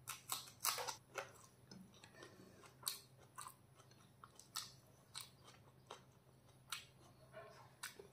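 Close-up mouth sounds of a person chewing rice and chicken curry eaten by hand: irregular wet smacks and clicks. They come in a quick cluster in the first second, then about every half second.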